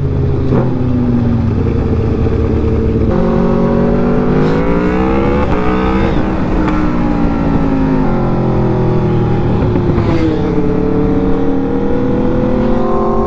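Straight-piped Aprilia RSV4 V4 sport bike engine running loud under way, its revs climbing and falling as it accelerates, eases off and pulls again, with a second sport bike's exhaust alongside.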